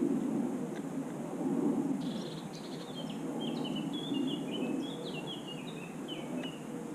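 Steady low background rumble, with a small songbird singing a quick run of short high notes from about two seconds in, opening with a brief buzzy trill.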